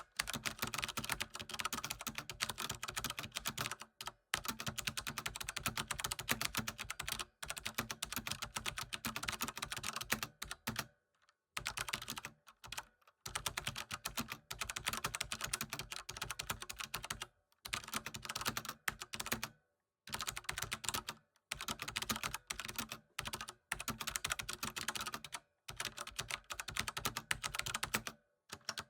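Fast typing on a computer keyboard: rapid runs of key clicks lasting a few seconds each, broken by brief pauses.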